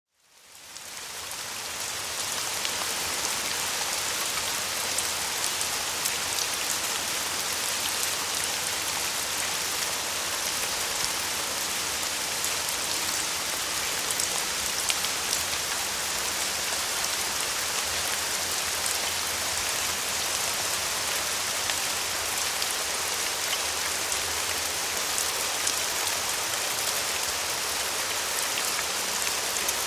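Steady rain falling, an even hiss with scattered drop ticks, fading in over the first couple of seconds.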